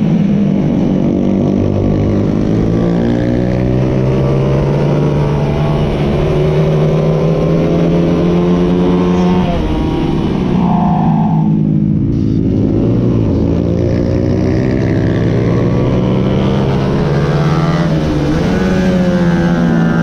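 Onboard sound of a 125 cc production racing motorcycle's engine held at high revs, its pitch climbing and falling with the gear changes. Around the middle the note drops as the throttle is eased for a corner, then climbs again as the bike accelerates.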